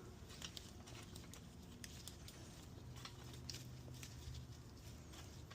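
Faint, irregular light clicks and taps as parts are handled and lined up before being hammered in, over a low steady hum.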